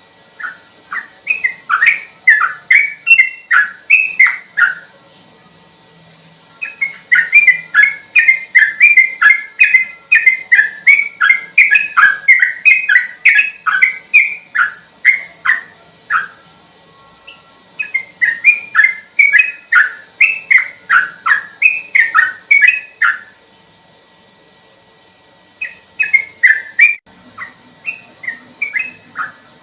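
Yellow-vented bulbul (trucukan) singing in fast runs of short, repeated warbling notes, the rapid continuous 'ropel' style, about three to four notes a second. It breaks off for a second or two three times.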